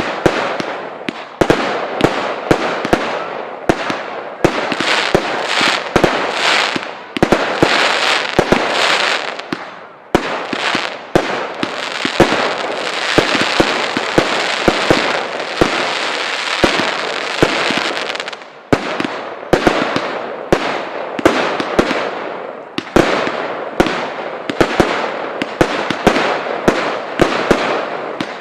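Fireworks display: a rapid run of shell bursts, with bangs every second or so and a dense stretch of crackling from about five seconds in to about eighteen seconds in.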